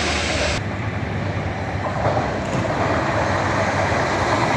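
A train running past on the rails, its wheels clattering over the track joints.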